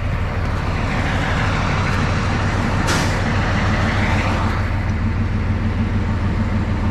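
Narrow-gauge diesel locomotive's engine running steadily, with a hiss of air lasting a few seconds from about a second in and a sharp click near the middle.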